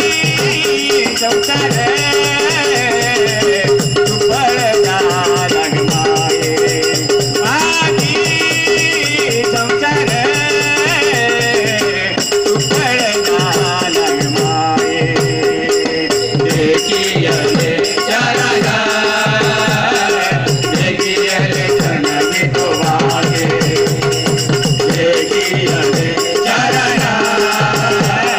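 Marathi devotional bhajan music: voices singing over a held drone note and a steady beat of hand percussion with jingling rhythm instruments.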